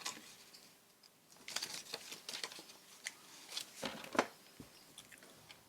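Hands handling paper tags and tape on a work surface: light rustling and small taps, busiest from about a second and a half in, with a couple of sharper taps near the middle.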